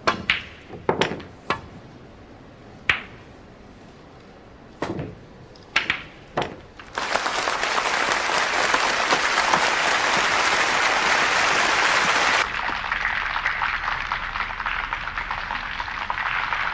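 A few sharp, separate clicks or single claps, then a crowd breaking into loud applause about seven seconds in. The applause drops to a quieter, continuing clapping a little after twelve seconds.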